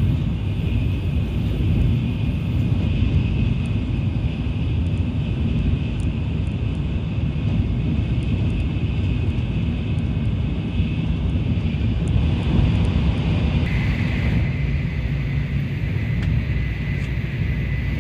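Tokaido Shinkansen train running at speed, heard on board: a steady rumble of the running gear. A thin steady high tone joins about three-quarters of the way through.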